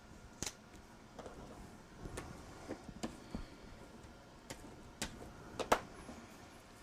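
Scattered light clicks and taps of paper and crafting tools being handled on a work table, the loudest a pair of sharp taps a little before six seconds in.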